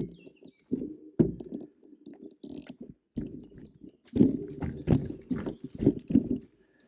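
E-mountain bike clattering and knocking over rough forest trail, in a run of irregular thuds and rattles that grows busier about four seconds in.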